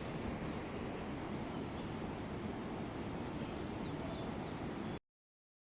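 Steady outdoor background hum with faint, short, high chirps of insects or birds. The sound cuts to dead silence about five seconds in.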